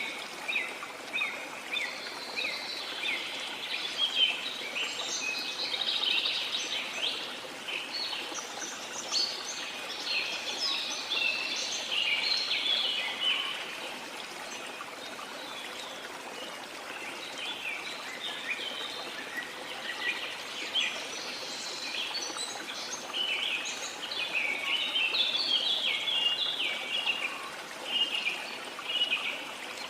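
Rain forest ambience: many birds chirping and singing in quick overlapping calls over the steady rush of a flowing river. The birdsong thins out in the middle and gets busy again near the end.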